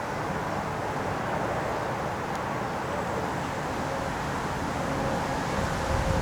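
Steady low rumble of vehicle noise, with wind buffeting the microphone near the end.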